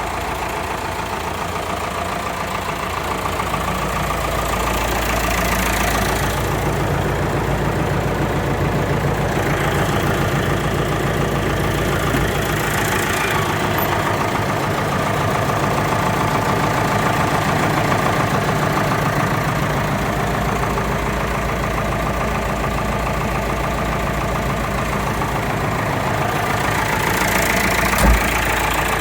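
David Brown 996 tractor's diesel engine running steadily at idle, with one short thump near the end.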